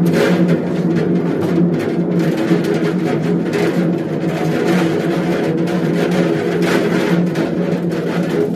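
Beko washing machine running with loose objects thrown into its drum: a steady motor hum with continuous irregular banging and clattering as the load is flung around.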